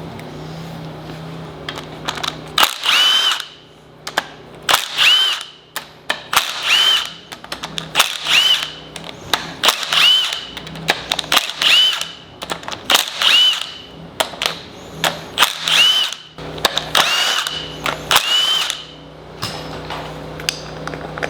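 Cordless power tool run in about ten short bursts, one every second and a half or so, each with a motor whine that rises as it spins up.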